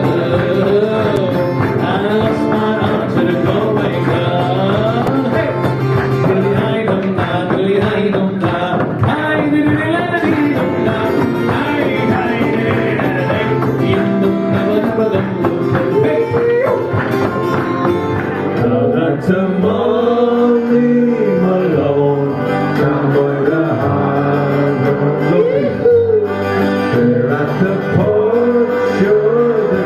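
A man singing a song with guitar accompaniment and a steady bass line, the music playing without a break.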